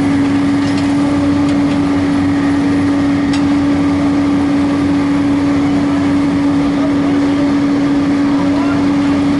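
Heavy construction machinery running steadily while a digger loads dirt into a dump truck: a constant engine drone holding one pitch, with a rough rumble under it and a few faint clicks in the first few seconds.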